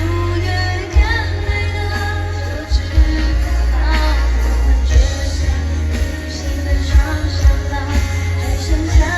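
Live pop concert music amplified through a venue PA: a heavy bass beat under a sung melody.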